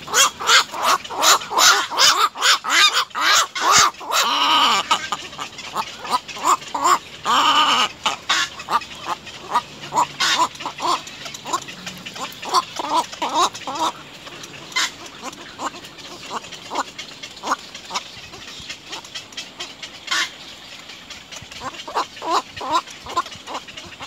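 Birds calling: a rapid run of short chirps, densest in the first eight seconds, with two longer drawn-out calls about four and a half and seven and a half seconds in, then sparser chirps.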